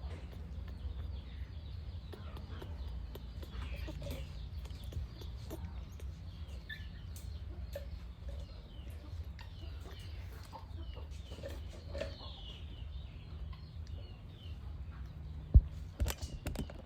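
Scattered short animal calls and clucks over a steady low hum, with a couple of sharp knocks near the end.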